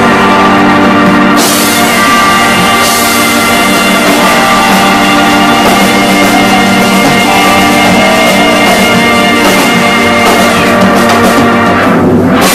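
Live rock band playing a loud instrumental passage, with electric guitar over bass and drums with cymbals.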